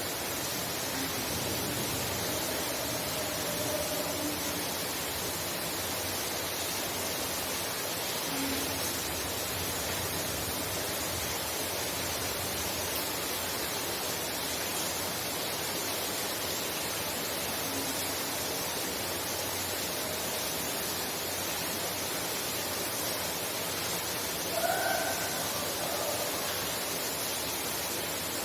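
Heavy rain falling steadily, heard from inside a house as an even, unbroken hiss. A few faint short pitched calls stand out now and then, the clearest about 25 seconds in.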